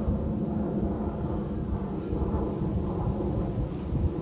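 Mountain wind blowing and buffeting the microphone: a steady, gusty low rumble.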